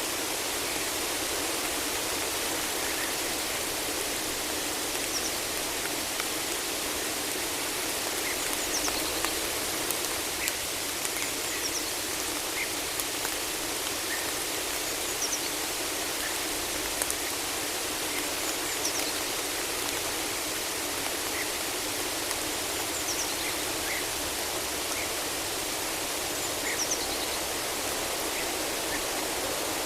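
Steady rain falling in a forest, a continuous even hiss, with short high bird chirps scattered throughout.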